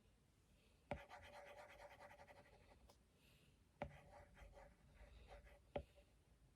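Faint scratching of a drawing tool moving across a surface in short strokes. Three sharp taps mark where strokes begin as the tool is set down.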